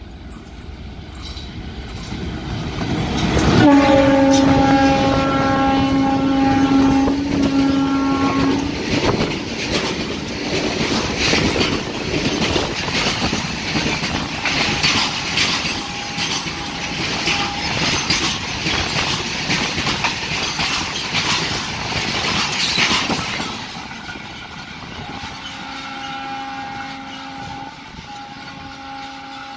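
Indian Railways freight train of BCNA covered wagons passing through at speed. The locomotive's horn sounds for about five seconds as it comes level, then the wagons rattle past with a fast clickety-clack of wheels. The noise fades after about twenty seconds, and near the end a second, fainter horn blast is heard.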